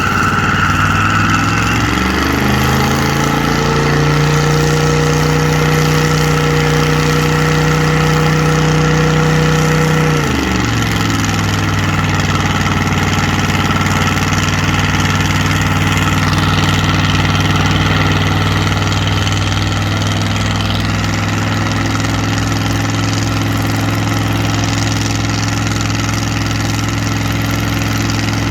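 A car engine on the burnout pad revs up over the first few seconds and is held at high revs for about six seconds, then drops back and runs steady at a lower, fast-idle speed.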